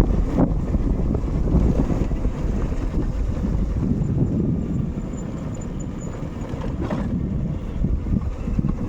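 Motorcycle riding along, with wind rumbling on the microphone over the engine and tyre noise, and a couple of brief knocks.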